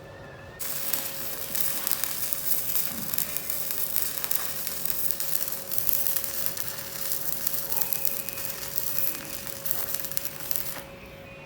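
Arc welding on the sheet-steel floor of a Vespa body: a steady sizzling crackle, like frying, that starts just under a second in and stops about a second before the end.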